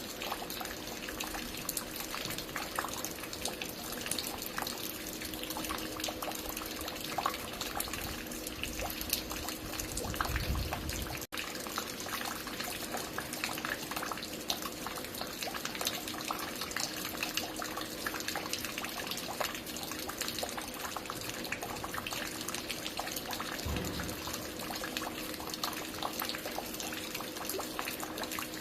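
Water falling and dripping in a dense, steady patter of drops, with a faint steady hum underneath. There is a brief low rumble about ten seconds in, and an instant cutout just after it.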